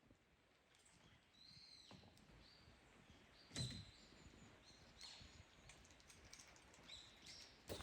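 Faint short bird chirps, high and repeated every second or so, with a single knock about three and a half seconds in.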